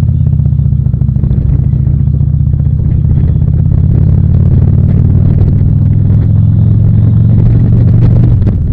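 Harley-Davidson V-twin motorcycle engine running steadily under way, its low pitch holding even and then easing off shortly before the end.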